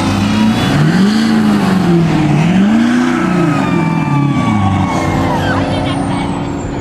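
Truck engine revved up and down twice, then settling to a steady run.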